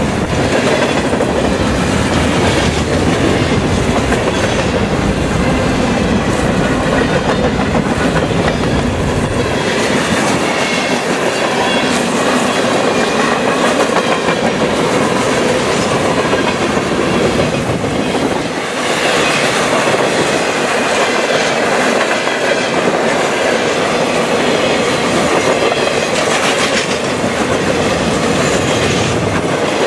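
Mixed freight train rolling past close by at speed: a steady rumble and clatter of freight-car wheels over the rails. The deep low rumble eases about ten seconds in.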